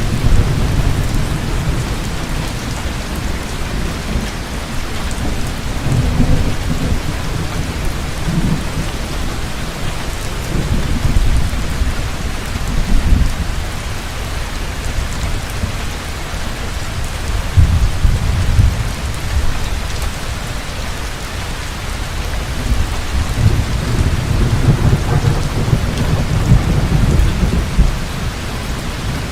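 Heavy rain falling in a steady hiss, with low thunder rumbling that swells and fades several times.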